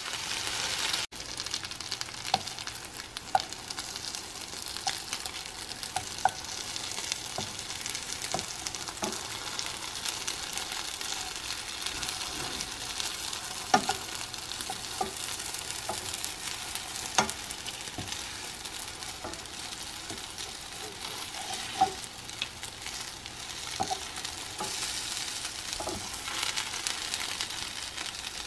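Egg-dipped sweet-roll pieces frying in melted butter in a nonstick skillet: a steady sizzle, with a few sharp clicks scattered through it.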